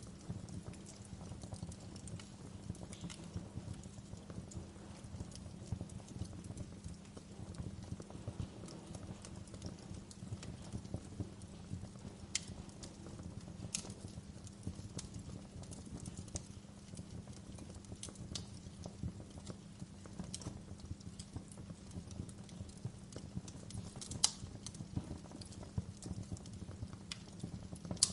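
Fire burning in a fireplace: a steady low rumble with irregular sharp crackles and pops, a few louder snaps among them.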